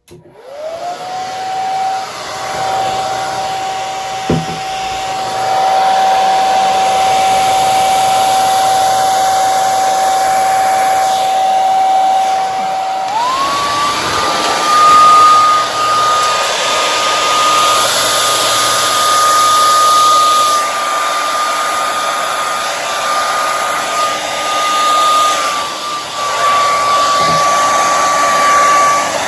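Hair dryer switched on and running on low with a steady whine and rush of air. About halfway through it is switched to a higher speed: the whine steps up in pitch and the air noise grows louder. There is a single light knock early in the low-speed run.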